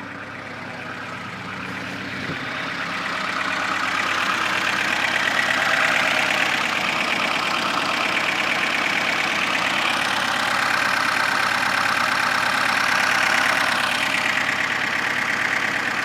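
The four-cylinder engine of a VAZ-21053 (Lada 2105) runs steadily at idle, freshly replaced along with its timing gear. It gets louder about three seconds in.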